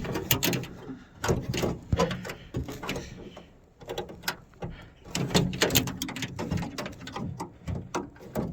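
Irregular clicks, knocks and rattles of a minivan door's handle and lock linkage rods and plastic clips, worked by hand inside the hollow steel door shell.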